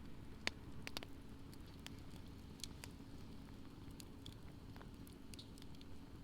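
Wood campfire crackling in a fire pit: irregular sharp pops, the loudest about half a second in, over a low steady rumble.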